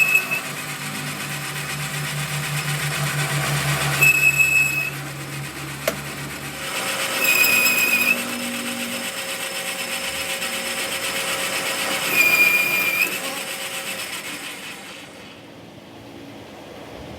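A workshop machine running, with a short high squeal about every four seconds and a low hum that stops about six and a half seconds in; it dies away near the end.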